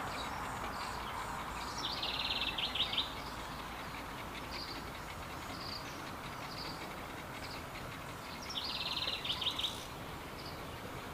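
Birds chirping, with short high calls about once a second and a buzzy, rattling trill about two seconds in and again near nine seconds.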